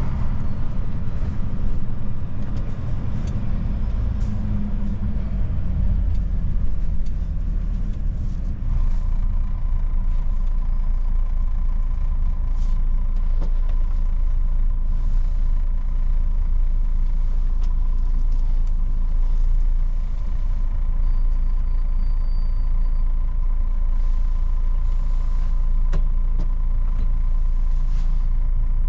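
Old Mercedes truck's diesel engine running while it drives through town, a steady deep rumble with a few short clicks and a faint steady whine that comes in about a third of the way through.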